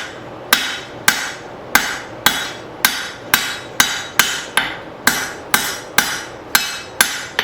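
Blacksmith's hand hammer striking hot leaf-spring steel on an anvil, a steady rhythm of about two blows a second, each with a short metallic ring.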